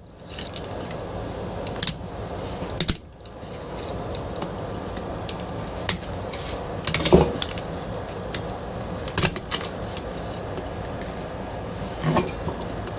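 Tool prying at ceiling fan parts held by small plastic clips: scattered clinks, clicks and knocks of metal being handled, over a steady background noise.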